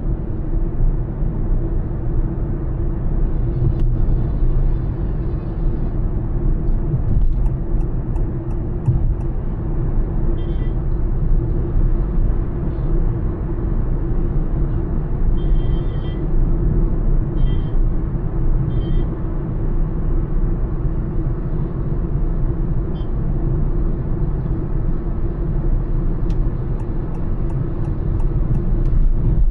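Honda Elevate SUV cruising at highway speed: a steady low rumble of tyre and road noise with an even engine hum. A few brief, faint higher-pitched sounds come and go partway through.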